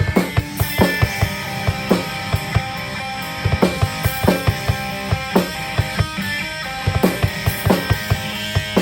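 Live rock band playing: a drum kit keeps a steady beat under electric guitar.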